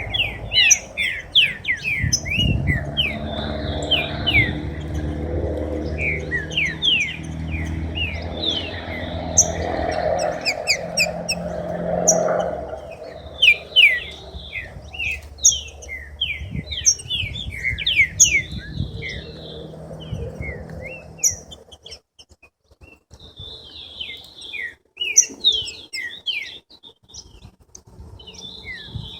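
Several caged songbirds chirping and calling in quick, repeated downward-sweeping notes. Under the birds there is a low rumbling noise that dies away about 21 seconds in, leaving only the birds.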